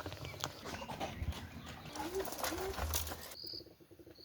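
A bird cooing twice, two short low notes, over a quiet outdoor background with a few faint clicks.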